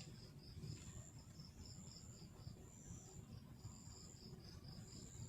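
Faint chorus of crickets: a high thin trill that comes and goes in stretches of about half a second to a second, with a quicker pulsing chirp below it at about four pulses a second, over a faint low rumble.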